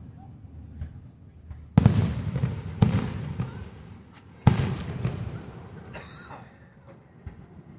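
Aerial fireworks shells bursting: three loud booms, about two, three and four and a half seconds in, each followed by a rolling echo, then a fainter crackle.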